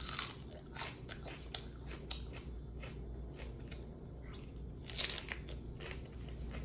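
A person chewing and crunching food close to the microphone: irregular short, crisp crunches and mouth clicks.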